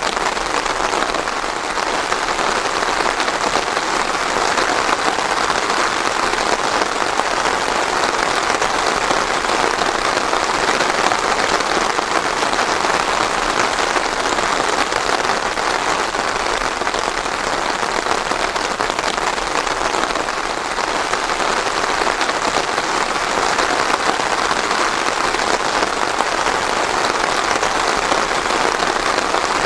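Steady heavy rain falling on a surface, a dense even patter of drops.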